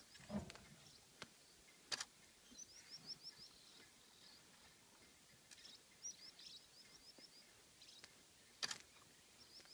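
A bird calling faintly in quick runs of high chirps, three times, over quiet open-air ambience, with a few sharp clicks.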